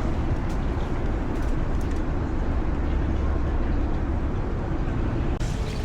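Steady low rumble of a moving vehicle, with an abrupt cut to a different sound near the end.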